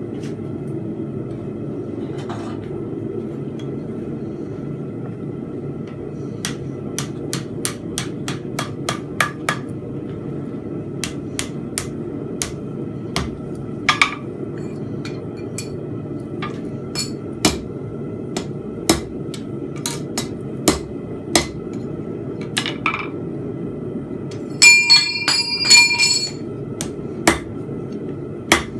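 Hand hammer forging a steel bar on an anvil: runs of sharp blows start about six seconds in, and a burst of ringing strikes comes near the end. A steady low rushing noise runs underneath.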